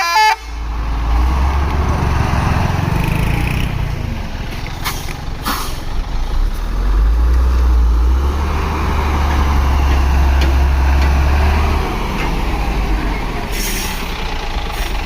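Heavy truck's diesel engine running with a loud, steady low rumble, with short air hisses about five seconds in and again near the end.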